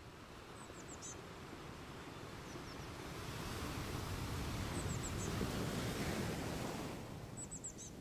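Surf washing ashore: a wave's rush swells over a few seconds and then falls back near the end. A small bird gives high, quick chirps in short runs of three or four, four times.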